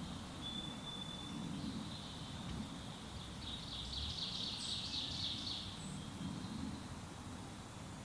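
A songbird sings a rapid, high chattering phrase lasting about two seconds in the middle, with a thin high note earlier, over a quiet woodland background with a faint low rumble.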